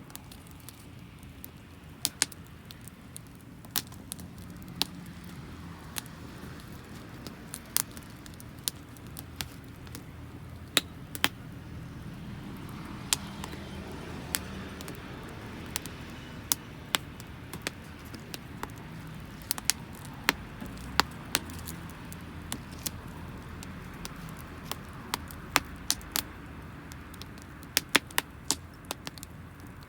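Wood fire of damp firewood crackling, with sharp irregular pops, sometimes several in quick succession, over a low steady rumble.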